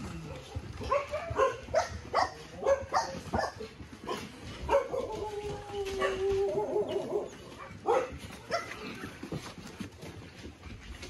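Shelter dogs barking: a run of short barks, then one long wavering cry lasting about two seconds, then a couple more barks.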